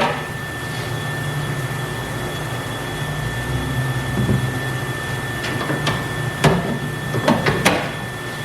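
A few sharp clicks and knocks of a car's tail-light and trunk trim being handled and worked loose, one at the start and a cluster from about five and a half seconds in to near the end. Under them runs a steady machine hum with a thin high whine.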